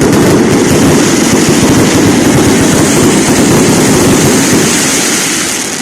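Fireworks salute going off in a dense barrage, rapid bangs and crackle merging into a loud continuous rumble that fades near the end.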